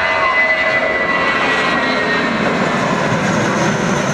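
Airbus A319 airliner's jet engines running at takeoff power as it departs: a loud, steady roar.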